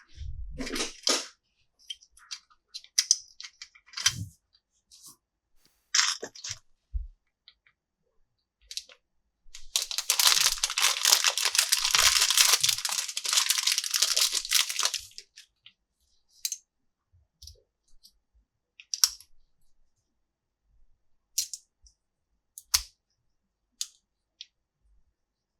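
Plastic toy parts and packaging being handled: scattered clicks and taps, with a crinkling, tearing noise lasting about five seconds in the middle.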